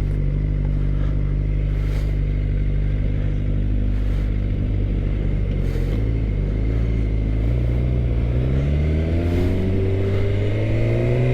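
2013 Suzuki GSX-R600's inline-four engine running steadily under way, then rising in pitch from about seven seconds in as the bike accelerates.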